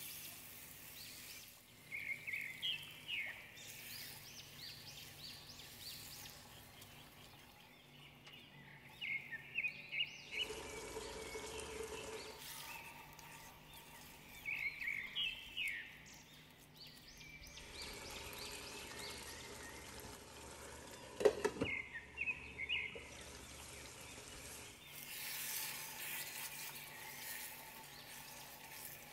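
Chicken curry masala sizzling in a nonstick pan as a spatula stirs it, with a sharp knock of the spatula against the pan about two-thirds of the way through. Birds chirp in short quick bursts about four times over it.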